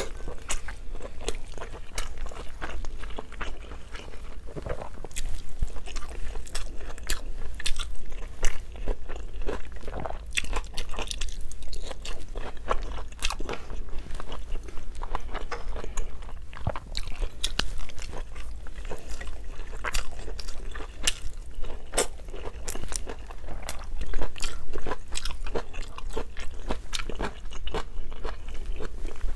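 Close-miked chewing of a mouthful of rice and pork belly eaten by hand: a dense, irregular run of short mouth clicks with no pauses.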